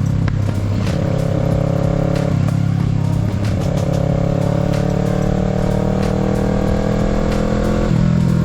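Kawasaki Z650's parallel-twin engine running under way on the road. Its note breaks off a couple of seconds in, then climbs slowly for several seconds and drops suddenly near the end.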